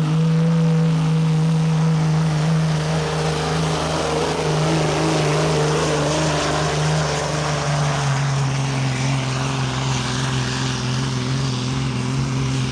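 Pro stock semi truck's diesel engine at full throttle, pulling a weight sled down the track, with a steady high whine over the engine note. The engine pitch sags a little about halfway through as the sled loads it down.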